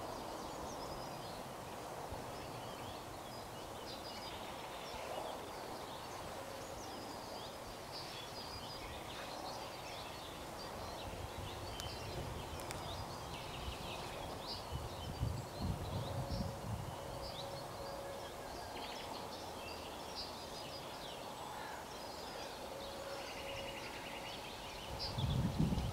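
Small birds chirping and singing over a steady outdoor background, with low gusts of wind on the microphone about fifteen seconds in and again near the end.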